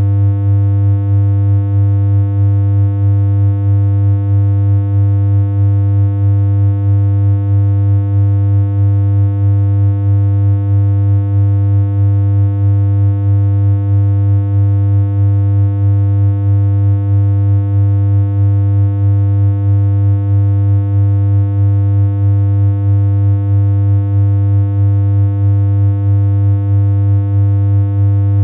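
Synthesized electronic hum: one loud, unchanging low tone with a buzzy edge of evenly spaced higher overtones, held steady without a break.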